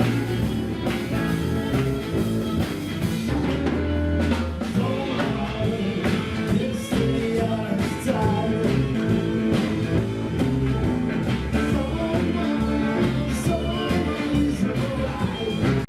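Blues-rock band music with electric guitar, drums and some singing.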